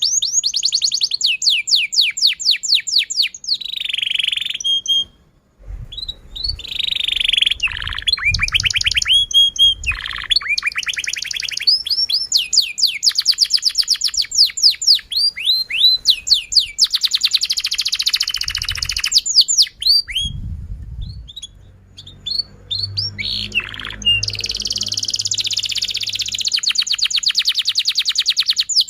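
Domestic canary singing a long, fast song made of rapid trills of repeated notes, with short breaks about five seconds in and again around twenty-one seconds.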